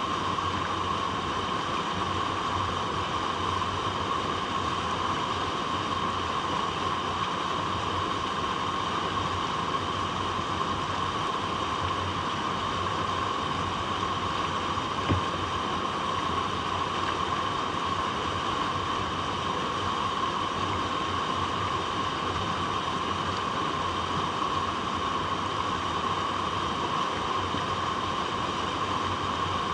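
Water flowing over rocks: a steady, unbroken rushing noise, with one brief click about halfway through.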